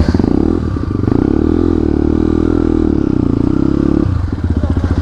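Motorcycle engine running on the move. Its pitch eases down and comes back up with the throttle, and it turns rougher and choppier about four seconds in.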